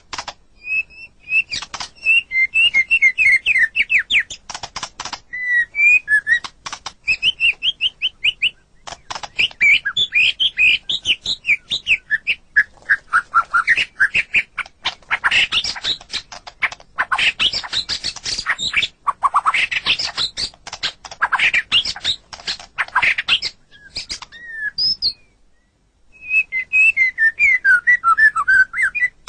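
White-rumped shama (murai batu) singing a long, varied song. It mixes fast runs of repeated whistled notes with harsh, rattling clicks, and breaks off briefly about 25 seconds in.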